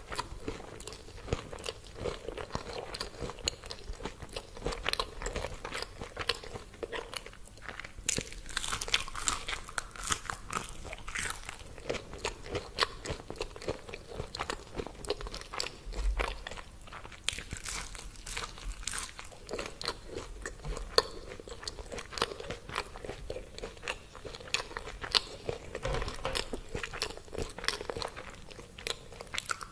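A person biting and chewing crispy fried food close to the microphone, a dense run of irregular crunches.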